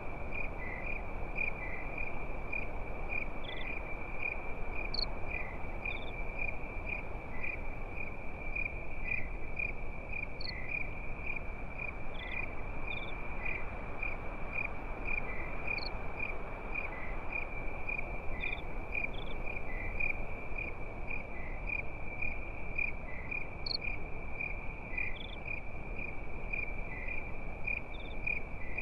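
Crickets chirping in a steady, evenly repeating high-pitched rhythm that never lets up, over a soft even hiss, with a few faint scattered ticks.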